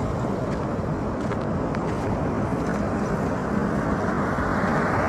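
Steady low rumble of vehicle noise, with no clear single event.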